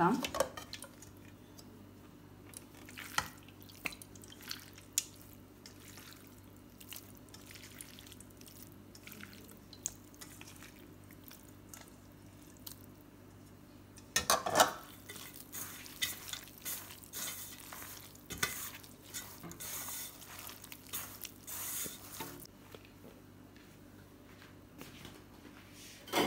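Raw chicken pieces being added to a bowl of dry spice powder and mixed, with scattered light clinks and knocks against the bowl. A louder clatter comes about 14 seconds in, followed by several seconds of busier clattering as the pieces are tossed through the masala.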